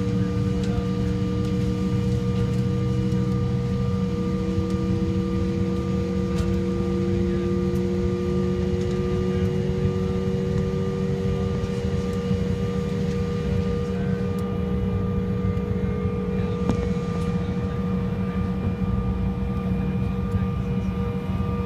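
Airliner cabin drone: a steady low hum with several steady whining tones, one of which slowly rises in pitch.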